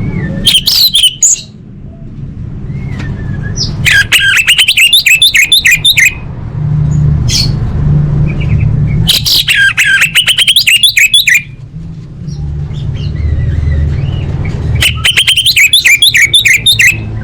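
Female orange-headed thrush calling: a short burst, then three runs of fast, harsh repeated notes about two seconds each, over a steady low hum.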